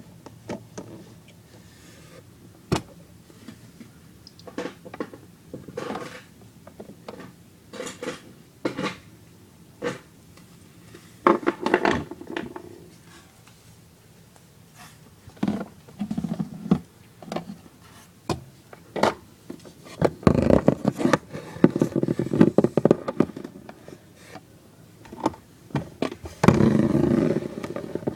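Plastic toy pieces being handled and fitted together: scattered clicks and knocks, with longer stretches of scraping and rustling about eleven seconds in, from about twenty to twenty-three seconds, and near the end.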